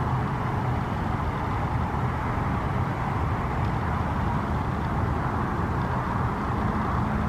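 Steady low rumble of a motor vehicle running, with an even hiss above it.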